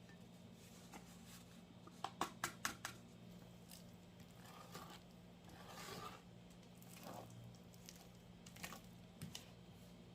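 Faint kitchen handling noises: a quick run of four or five light clicks about two seconds in, then soft rustling and a few more clicks near the end, over a low steady hum.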